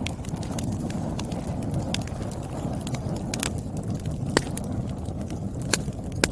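Wood fire burning in a fireplace: a steady low rumble of flames with sharp crackles and pops from the burning logs every second or so.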